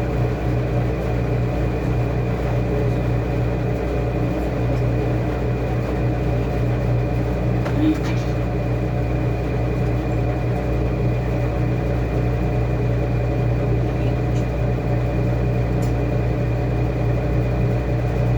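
Washing machine running with a steady motor hum that holds one pitch throughout, with a few faint clicks about halfway through and again near the end.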